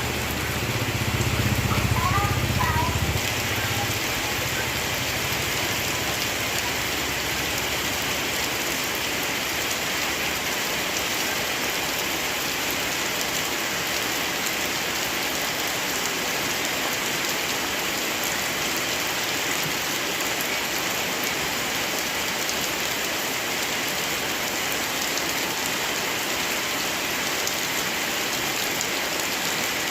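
Steady heavy rain falling, an even wash of noise, with a low rumble under it for the first three seconds or so.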